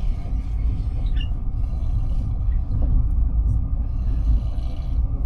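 Passenger train running, heard from inside the carriage as a steady low rumble with a few faint light rattles.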